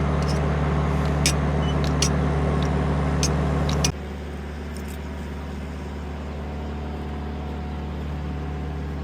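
Steady drone of an idling vehicle engine with a few sharp metallic clinks of tools on the compressor's mounting bolts. The drone drops abruptly to a quieter level about four seconds in.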